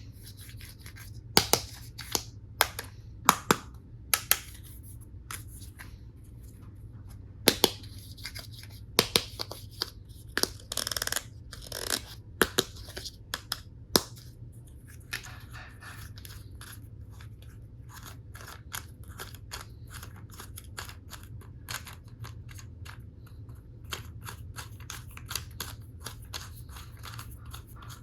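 Hard plastic toy tool pieces being handled: loud sharp clacks and knocks through the first half, with one steady noise lasting about a second near the middle, then lighter, quicker clicking and rustling.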